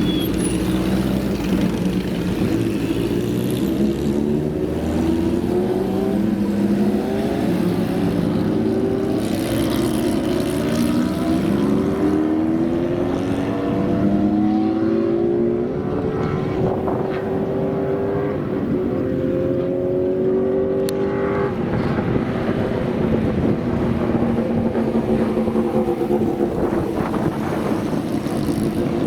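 Several classic motorcycle engines running and revving together, their overlapping pitches repeatedly rising and dropping back, settling to a steadier running note near the end.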